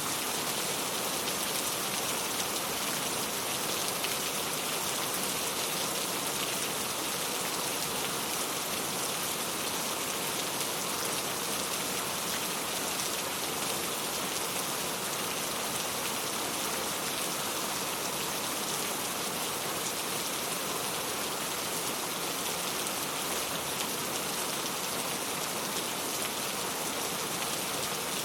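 Steady rainfall, an even wash of many drops with no change throughout.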